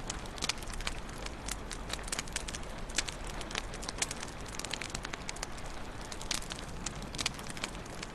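Wood fire crackling in a fireplace: many sharp, irregular pops and snaps over a steady low hiss of burning.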